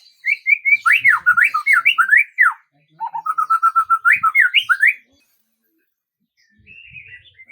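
A songbird singing loud, clear whistled phrases of quick notes sweeping up and down, including a run of rapid even notes that rises into more sweeping notes. The song breaks off about five seconds in, and faint twittering follows near the end.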